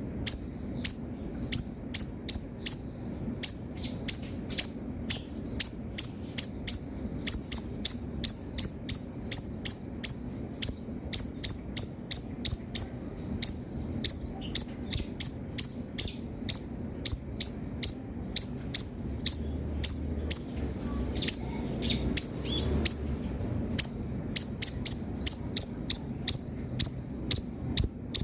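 Kolibri ninja sunbird singing a fast, continuous string of short, sharp high chirps, about three a second, some in quick clusters, with a brief pause near the end. A faint steady high whine runs underneath.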